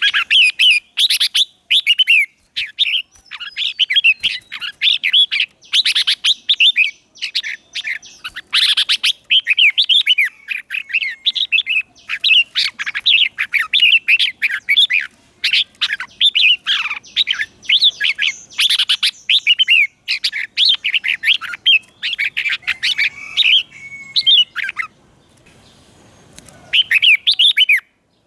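Red-whiskered bulbul singing: a decoy bird's calling song of short, quick warbling phrases, one after another, with a pause near the end before a last phrase.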